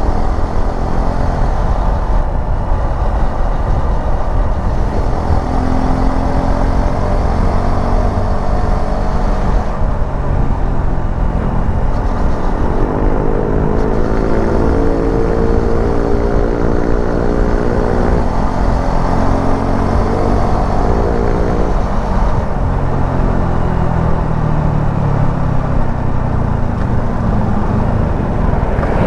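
Suzuki V-Strom 250 SX's single-cylinder engine running under way, its pitch rising and falling with throttle and gear changes. A heavy low rumble of wind noise runs underneath.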